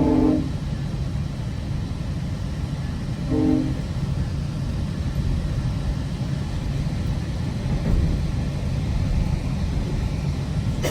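Train horn sounding as heard from inside a moving passenger rail coach: a multi-note chord that cuts off about half a second in, then one short blast about three and a half seconds in. Between the blasts the coach's steady low rumble of wheels on track carries on.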